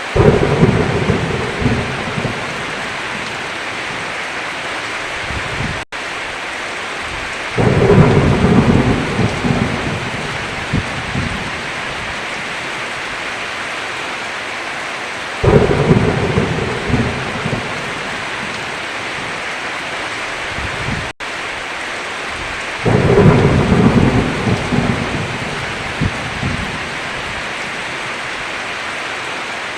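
Heavy rain falling steadily on a roof, with four rolls of thunder rumbling up and fading away at even intervals of about seven and a half seconds. The sound cuts out for an instant twice.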